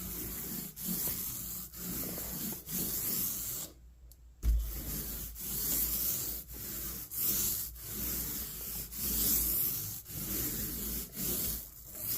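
Dried drywall joint compound being hand-sanded, back-and-forth rubbing strokes at about two a second, with a brief pause about four seconds in.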